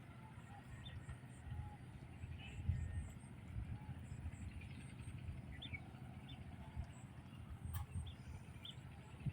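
Scattered faint bird chirps over a steady low rumble with irregular soft thumps.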